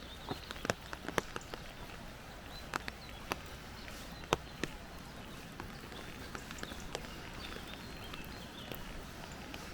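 Wet forest ambience: scattered, irregular sharp taps over a steady background hiss, with faint high bird chirps.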